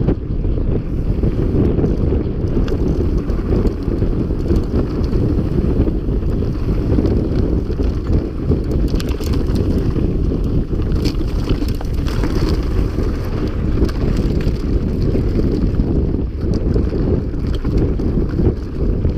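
Wind rumbling steadily on the microphone of a camera carried by a mountain biker at speed, with faint clicks and rattles from the bike over rough ground.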